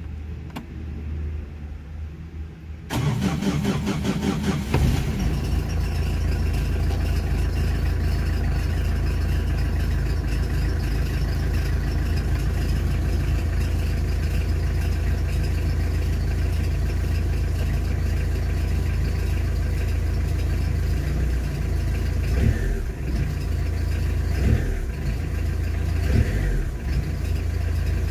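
Tata Indica car engine started about three seconds in: it cranks briefly, catches and settles into a steady idle at about 1000 rpm.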